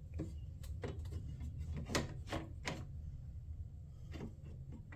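Small installation hardware clicking and clinking as it is handled and sorted, about eight short sharp clicks, the loudest about two seconds in, over a steady low hum.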